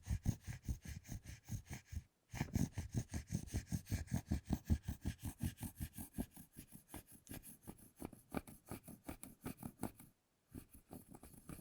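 A metal fork scraping and scratching a thick chocolate bar in quick, even strokes, about five a second, with two brief pauses.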